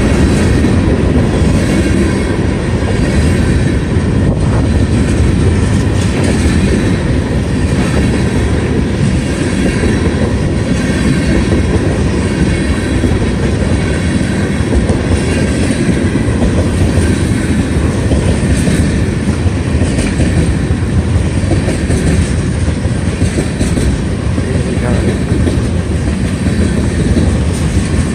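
A CSX mixed manifest freight train rolling past steadily, its cars' wheels running over the rails.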